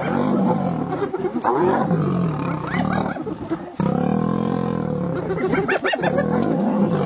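Lions growling and snarling continuously in a squabble with hyenas over a kill, with long low growls rising and falling and higher rising calls mixed in.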